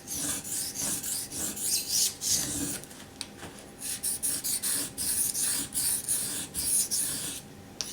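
Steel knife blade being stroked back and forth on a wet Naniwa Chosera waterstone, a rapid series of scraping strokes with short pauses in between, as the tip portion of the edge is worked.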